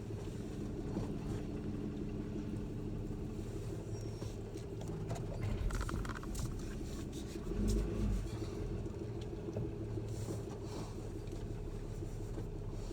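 Pickup truck engine running steadily at low speed, with a couple of louder low bumps about six and eight seconds in.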